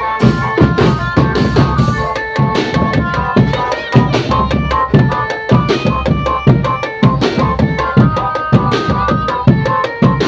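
Indonesian marching drum band playing: bass and snare drums beat a fast, steady rhythm under a melody of held notes.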